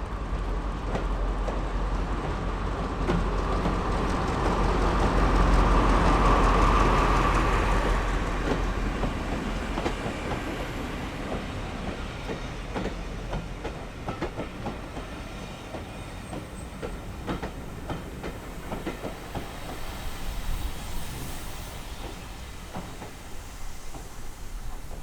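A train passing at speed, loudest about six seconds in and then fading away, its wheels clicking rhythmically over the rail joints as the carriages go by.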